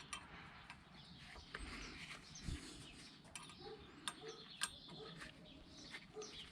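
Faint birds chirping in the background, with a few sharp clicks, the two loudest a little past the middle.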